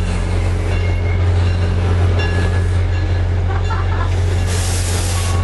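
Diesel passenger train running steadily close by: a constant deep drone with faint higher tones over it. A short burst of hiss comes about four and a half seconds in.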